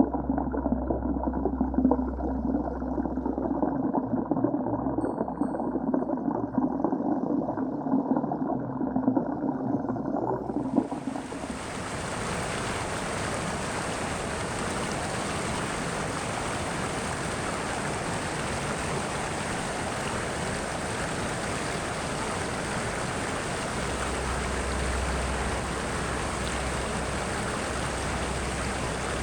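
Water sound, muffled and churning for about ten seconds, then switching suddenly to a steady, full hiss of rushing water.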